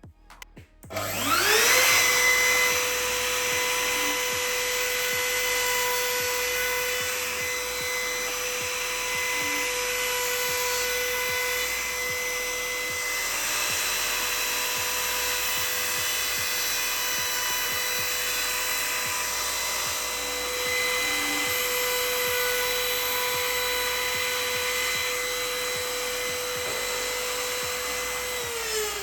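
Electric power tool motor spinning up about a second in, then running at a steady high whine, and beginning to wind down at the very end.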